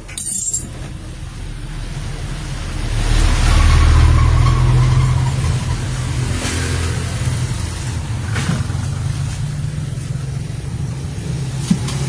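Low, steady electrical hum from a microphone plugged into an amplifier and speaker, swelling for a couple of seconds partway through. A loud crackle comes just after the start, with a few faint clicks later, as the repaired microphone's connection is tried again.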